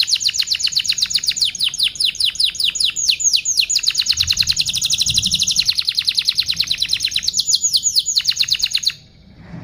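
Domestic canary singing a long, rapid trill of repeated downward-sweeping chirps, the fast 'cuit cuit' run of a canary in full song. It stops suddenly near the end.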